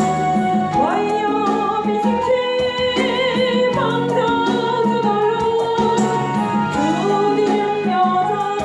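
Christian praise song: a singer holding a melody with vibrato over steady instrumental accompaniment.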